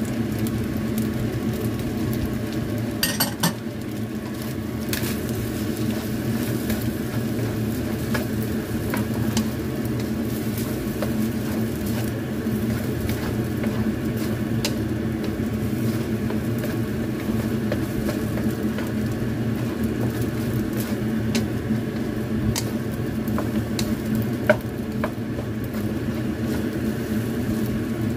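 Fried rice sizzling in a nonstick wok as egg white is stirred through it, with a wooden spatula scraping and tapping against the pan, over a steady low hum. The sharpest taps come about 3 seconds in and near the end.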